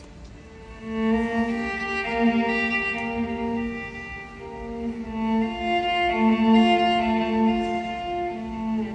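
Slow instrumental music of bowed strings holding long chords, coming in about a second in after a quiet start.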